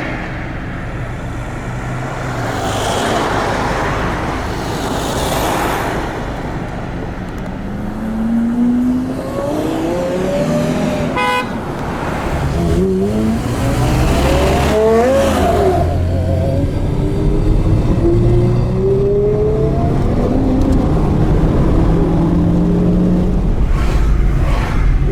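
Porsche Carrera GT's V10 through an FVD exhaust accelerating hard, its pitch climbing, dropping and climbing again through several gear changes, with the car going past.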